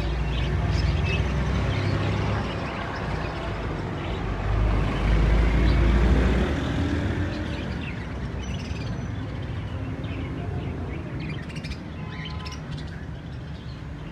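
Small caged birds chirping over a low rumble of outdoor market noise. The rumble is loudest in the first six seconds, and the high, short chirps stand out more clearly in the second half.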